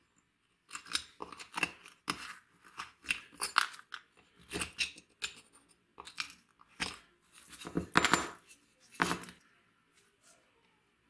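A series of short, irregular rasping strokes of hand work on an old wooden level, about a dozen in ten seconds, with the loudest pair near the end.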